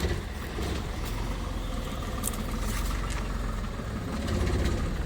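An engine running steadily: a low rumble with a rough, noisy hiss over it.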